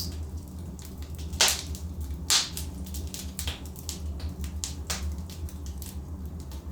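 Wood fire in a fireplace crackling: irregular sharp pops from the burning logs, three louder snaps among many small ticks, over a steady low rumble of the flames.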